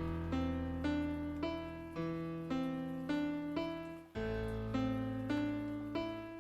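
Piano music: a steady line of notes at about two a second over a held low bass note, which changes to a new bass note about two-thirds of the way through.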